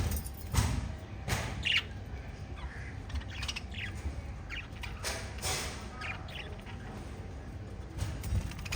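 Several pet budgerigars chirping and squawking, a scatter of short, sharp calls at irregular moments.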